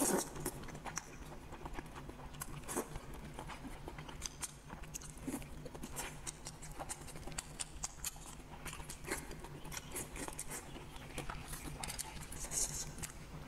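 Close-miked eating of braised rooster head: wet chewing and sucking with many small, irregular smacking clicks.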